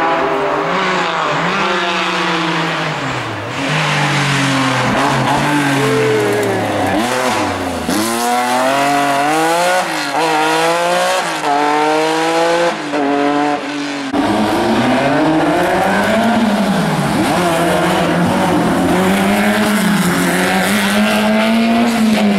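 Historic rally car engines at high revs, the pitch climbing and dropping again and again as the car accelerates and shifts gear. About two-thirds of the way through the sound changes abruptly to a steadier, high engine note.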